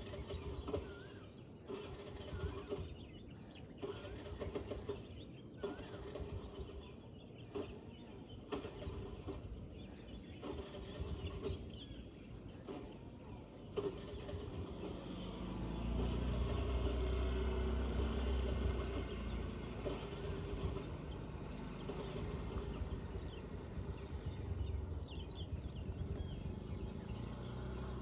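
Morning forest ambience: small birds chirping over a steady high-pitched hum. About halfway through, a low rumble swells in and stays underneath, loudest a few seconds after it begins.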